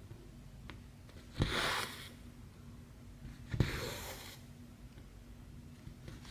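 Cross-stitch needle pushed through the stiff fabric with a sharp tick, then the thread drawn through with a rustling swish that fades over under a second; twice, about two seconds apart.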